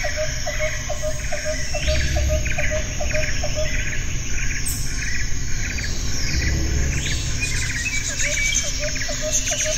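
Tropical jungle ambience: birds calling in repeated chirping phrases over a bed of insects. A lower pulsing call repeats about four times a second, drops out about a third of the way in and comes back near the end, and a low rumble swells twice.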